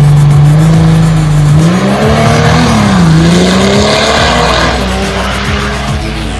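Cummins inline-six diesel of a drag-race truck running hard at high revs. Its pitch climbs, drops sharply about three seconds in as at a gear change, then climbs again and levels off. Music plays underneath.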